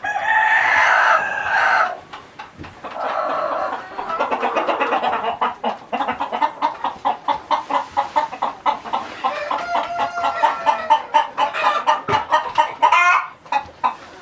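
Chickens calling: a drawn-out crow-like call at the start, then a long run of rapid, repeated clucks with a few longer drawn-out notes mixed in near the end.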